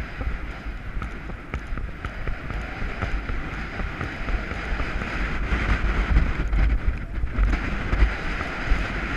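Wind buffeting an action camera's microphone, giving a steady low rumble with a hiss above it and scattered faint knocks.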